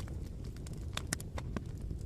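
Campfire burning: a steady low rumble of flames with scattered sharp crackles and pops of burning wood, a few each second.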